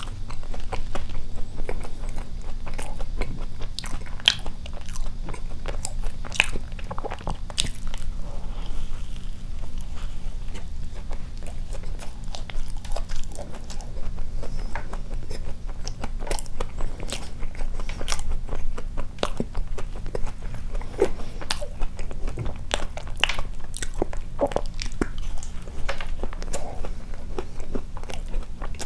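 Close-miked chewing of a soft cream-filled doughnut: irregular wet mouth smacks and clicks, several a second, over a steady low hum.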